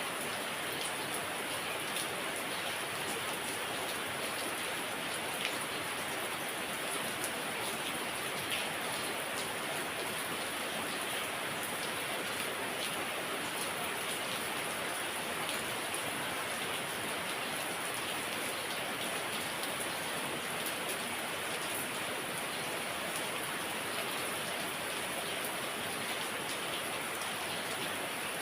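Heavy rain falling steadily, a dense even hiss with the patter of individual drops.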